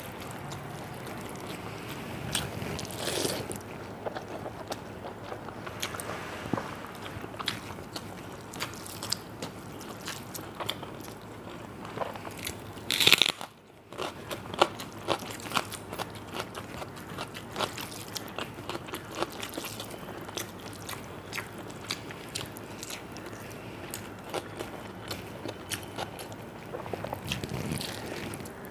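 A person eating close to the microphone: crisp crunches and chewing of fried food (fried potato, pointed gourd and fish) taken with watery fermented rice, many sharp crunches in an uneven rhythm. About halfway through there is a louder crunch, then the sound drops out for a moment.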